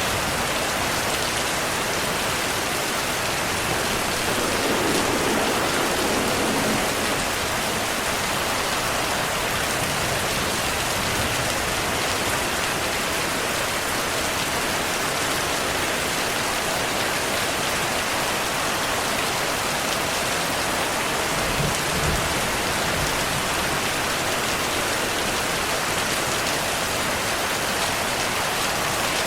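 Heavy, steady rainfall, a dense even hiss of drops, with faint low rumbles swelling a few seconds in and again near the end.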